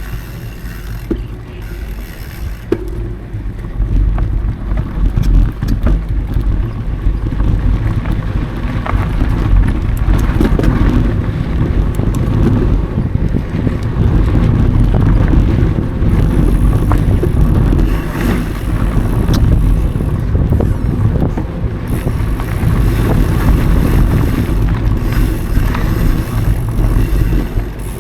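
Mountain bike riding along dirt singletrack: steady wind buffeting on the action camera's microphone and tyre rumble, with scattered clicks and rattles from the bike over the trail.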